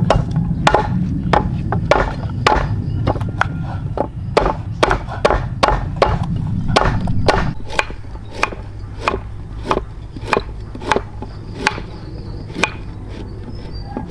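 Repeated chopping strikes of a blade into wood or plant stems, about two sharp hits a second and steady throughout.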